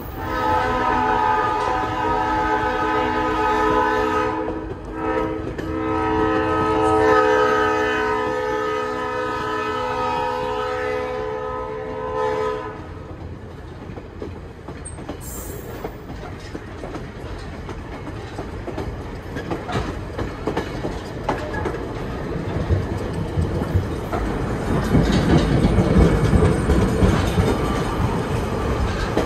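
Train horn sounding a steady chord in two blasts: about four seconds, a short break, then about eight seconds. After it the train rolls on with wheels clicking over the rail joints, the running noise growing louder near the end.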